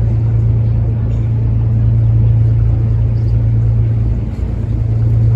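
Barge diesel engine running steadily, a deep constant drone with a rough rumble underneath.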